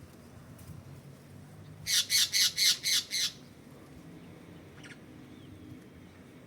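A bird calling from close by: a quick run of six harsh squawks, about four a second, around two seconds in, then one faint short call near five seconds.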